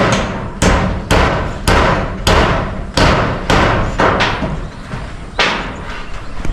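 Hammer blows at about two a second, each sharp and ringing briefly, slowing slightly near the end: a hammer driving roofing nails through corrugated iron roofing sheets.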